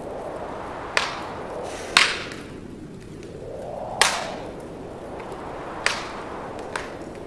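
Wood fire crackling in a fireplace: five sharp pops of burning logs, the loudest about two and four seconds in, over a steady rushing hiss.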